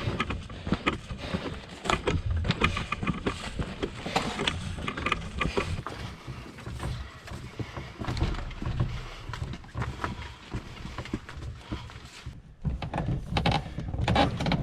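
Irregular knocks, clicks and rustling of gear being carried and handled, over a constant low rumble.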